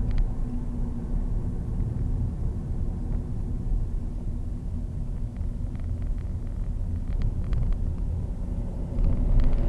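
Steady low rumble of a vehicle, with a few faint ticks about halfway through.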